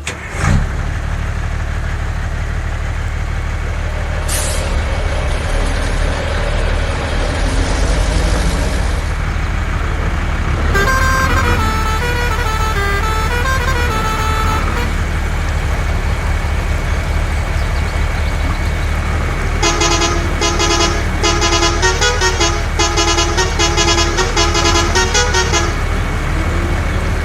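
Truck engine running steadily, with a musical horn playing a short stepped tune twice, once in the middle and again later. A hiss lasts for several seconds near the start.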